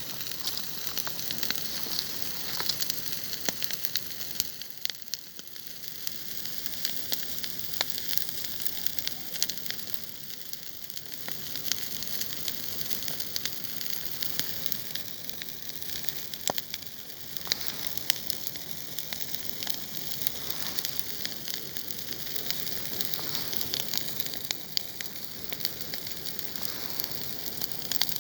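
Bonfire of thistles burning, with a steady hiss and dense crackling of many sharp snaps.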